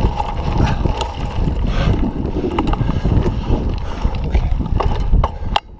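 Wind buffeting the microphone of a mountain biker's camera while riding, with scattered sharp clicks and rattles from the bike on the dirt trail; the noise drops off suddenly near the end.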